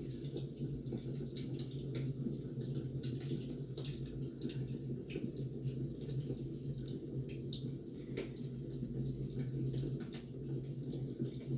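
Firewood burning, with irregular crackles and pops scattered over a steady low rumble.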